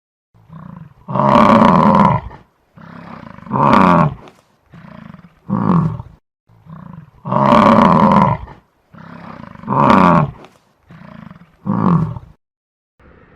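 Lion roaring: two bouts, each of three roars that start with a long one and get shorter. Each roar falls in pitch and has a softer lead-in sound before it.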